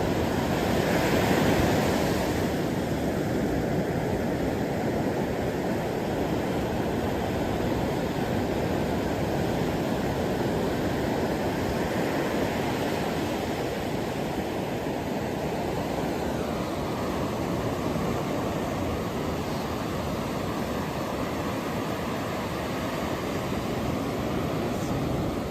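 Ocean waves washing on a shore: a steady rushing noise that swells slightly about a second or two in.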